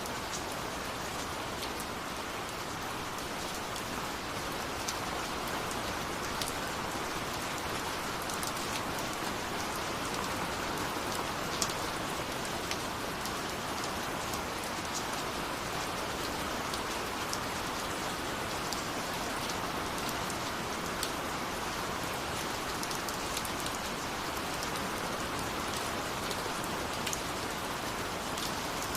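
Steady rain with scattered sharper drop ticks.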